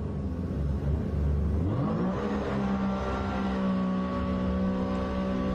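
A jet shark watercraft's engine, rumbling low and then revving up in pitch about two seconds in, holding steady at high revs.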